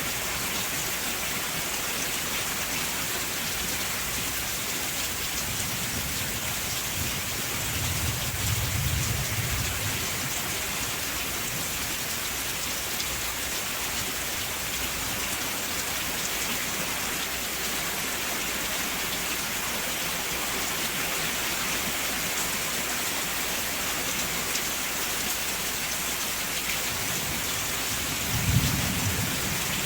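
Steady rain falling in an even hiss, with a low roll of thunder about eight seconds in and a shorter, louder thunderclap near the end.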